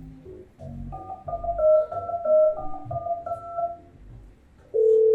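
Electronic keyboard music: a short melody of stepped notes. Near the end a single steady telephone tone begins, a phone-call sound effect.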